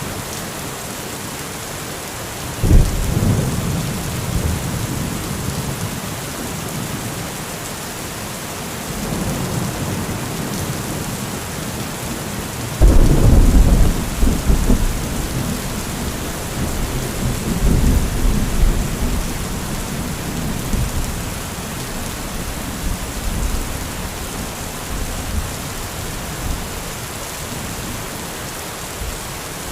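Steady heavy rain with thunder. A clap breaks about three seconds in, and the loudest clap comes near the middle and rumbles on for a couple of seconds. Further rolling rumbles follow a few seconds later.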